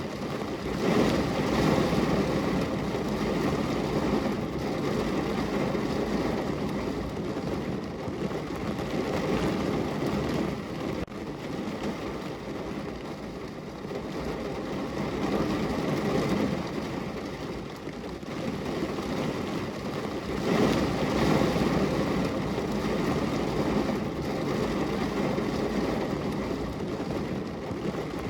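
Heavy rain drumming on a car's roof and body, heard from inside the cabin as a dull, steady rush that swells and eases in waves.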